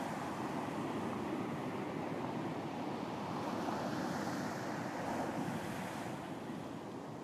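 Ocean surf washing on a beach: a steady rush of waves that swells slightly and then eases, with some wind noise on the microphone.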